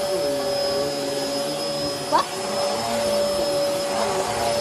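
Bissell Helix vacuum cleaner running with a steady motor whine. A brief rising squeak cuts through it about two seconds in.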